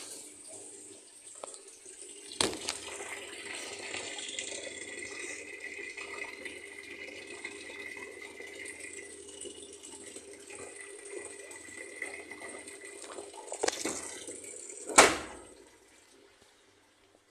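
Water running steadily, as when a tap or washing machine fills with water; it starts with a click about two seconds in and stops after a loud knock near the end.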